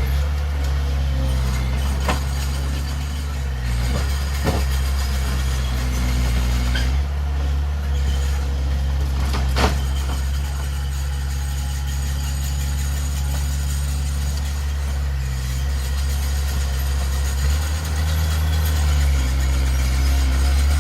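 Heavy diesel engine of earthmoving machinery running steadily, with a few sharp knocks, the loudest about ten seconds in.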